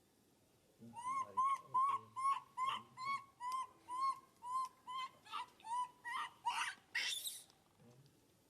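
An animal calling: a run of about sixteen short calls, each rising then falling in pitch, roughly three a second. The last few calls turn louder and harsher.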